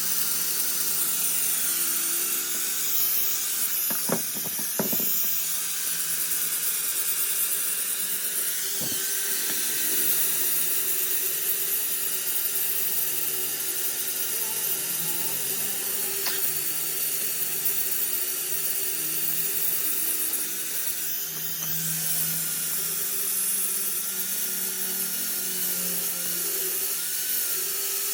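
A power tool running steadily with a high whine over a continuous hiss, with a couple of brief knocks a few seconds in.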